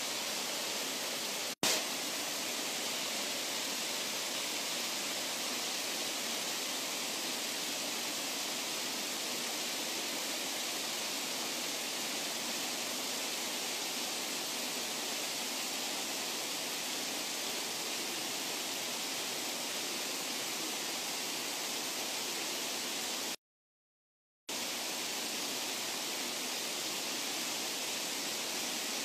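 Steady rushing of flowing water, an unbroken even hiss with no change in pitch. It drops out briefly for about a second some 23 seconds in.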